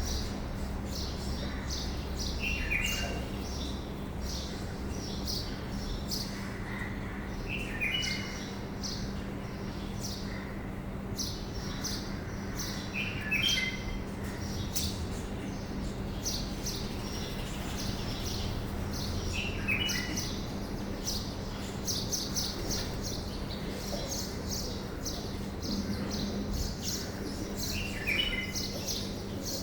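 Birds chirping: many short, high chirps throughout, and a brief call that recurs about every five or six seconds. A steady low hum runs underneath.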